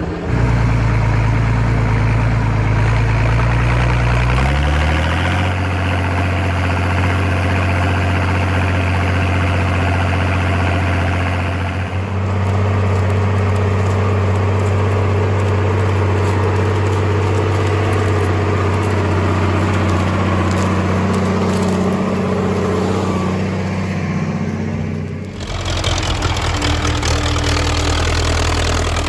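Mini tractor engine running steadily. It speeds up about five seconds in, holds at the higher speed, and drops back to a lower speed near the end.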